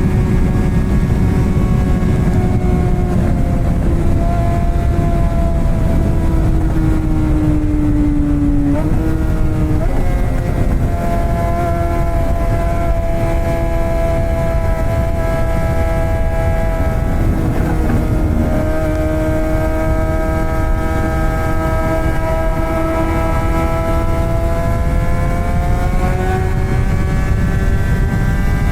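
Straight-piped Suzuki GSX-R600 K7 inline-four engine running at fairly steady revs under heavy wind rush on the microphone. The revs dip briefly about nine seconds in and again around eighteen seconds, then climb toward the end.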